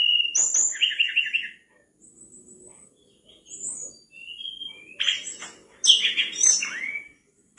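Mangrove blue flycatcher singing: varied phrases of clear whistles and rapid trilled notes, broken by short pauses.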